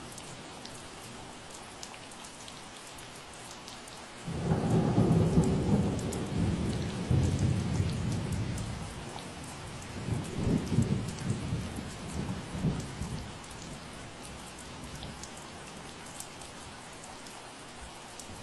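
Steady rain falling with scattered drop ticks. A low rumble starts suddenly about four seconds in, swells again around ten seconds, and dies away by about thirteen seconds.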